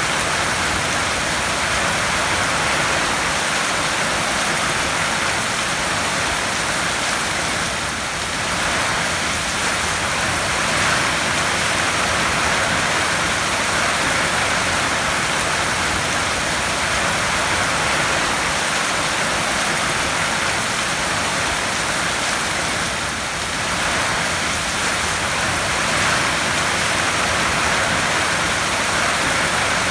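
Heavy rain drumming on a tin roof, a dense steady hiss that swells and eases slightly a couple of times.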